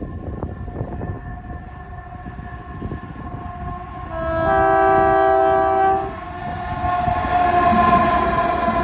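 Colas Rail Class 70 diesel locomotive sounding its two-tone horn for about two seconds, then its engine and wheels growing louder as it approaches.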